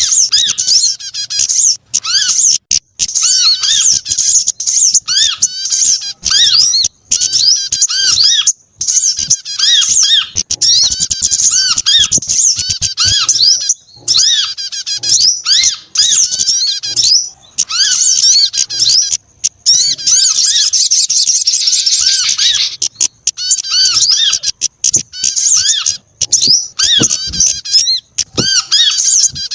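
Bird-lure recording of several small songbirds' calls layered together, played to attract small birds. Rapid, high, squeaky chirps and trills come in quick runs with brief gaps between them, with a denser, busier chatter about two-thirds of the way through.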